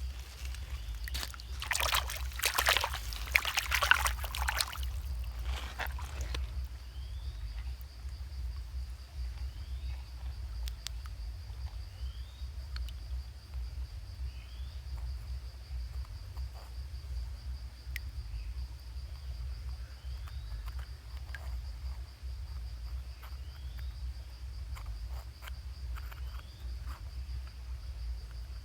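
Water sloshing and trickling for about six seconds, then a steady high-pitched buzz with a short rising chirp every couple of seconds.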